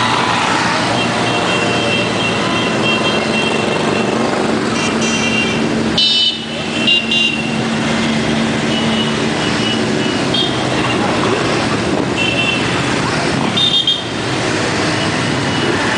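Motorcycles riding past in a steady stream, many engines running at once, with short horn toots sounding now and then.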